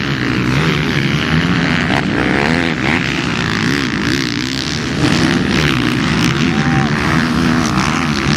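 Several motocross bikes' engines racing on the track, their pitch rising and falling as riders rev, shift and roll off the throttle, with more than one engine heard at once.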